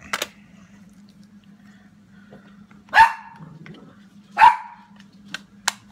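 A dog barks twice, about a second and a half apart, over a few light taps.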